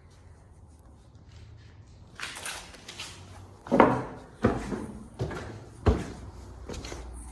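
A series of irregular knocks and thuds, about half a dozen over a few seconds, the loudest near the middle.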